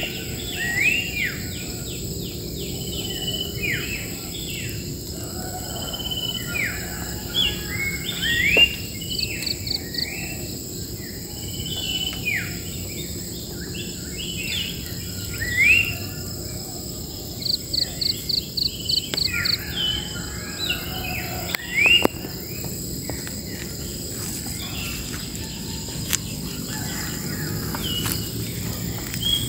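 Many wild birds calling and chirping at once, short rising and falling notes with a couple of quick rapid trills, over a steady high drone of insects. Two sharp clicks stand out, the louder about two thirds of the way through.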